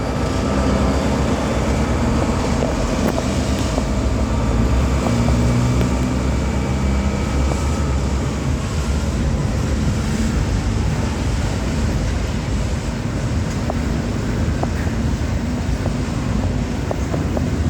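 Diesel freight locomotive engine running as it hauls its train away, a steady low drone that is strongest in the first half and eases off a little later on. Wind on the microphone.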